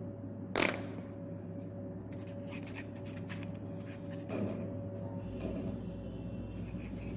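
Small handling sounds of miniature fireplace kit parts being worked by hand: one sharp click or snip a little over half a second in, then faint scattered ticks and rustles over a steady low hum.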